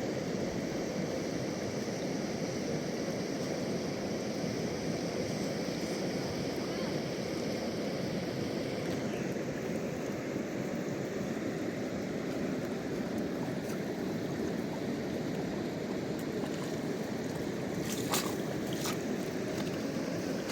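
Mountain river rushing in a steady roar of water, with a few sharp clicks near the end.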